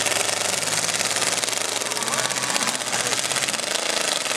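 Several demolition derby cars' engines running and revving together, a loud, dense rattling racket with pitch that rises and falls as the drivers work the throttles.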